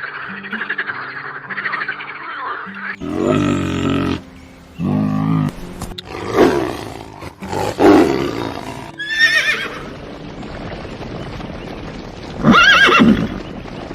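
Calls of several different animals one after another, each a short pitched call, cut abruptly between them; the loudest is a brief call near the end that rises and falls in pitch.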